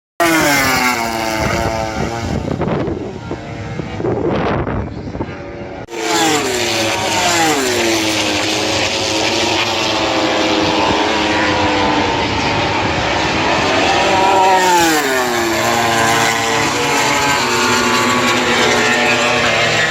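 MotoGP race motorcycles passing at top speed one after another, their high-revving engines screaming and dropping sharply in pitch as each goes by. The sound starts abruptly and changes suddenly about six seconds in.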